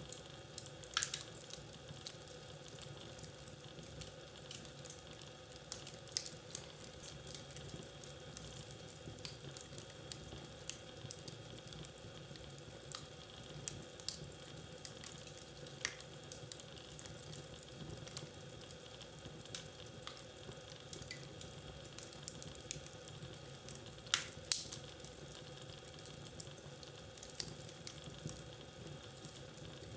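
Fire crackling in a fireplace: a steady low hiss with irregular sharp pops and snaps, one louder pop about five seconds before the end.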